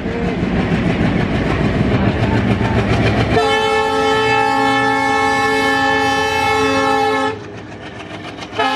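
Train running noise, then a locomotive air horn sounding one long blast of about four seconds, starting about three seconds in. A second short horn note begins right at the end.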